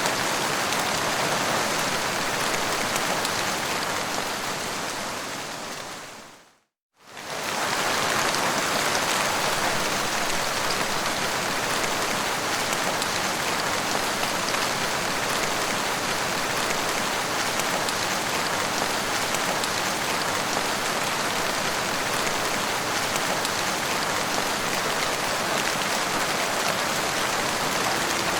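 Steady rain falling. About six seconds in it fades out to a moment of silence and fades straight back in, as at the join of a looped recording.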